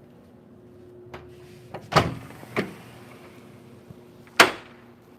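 A door on a yacht being handled and shut: a couple of light clicks, two heavy thumps about two seconds in, then a sharp bang with a short ring-out near the end. A low steady hum runs underneath.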